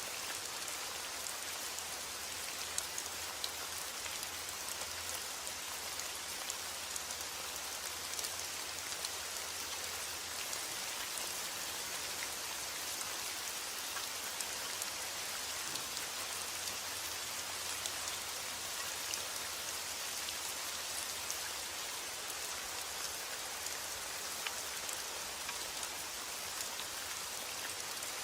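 Steady rain falling, a continuous hiss with many small drop ticks on a surface. A faint low hum sits underneath.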